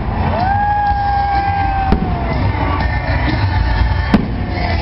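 Fireworks banging twice, about two seconds apart, over music with a long held high note and a steady low rumble underneath.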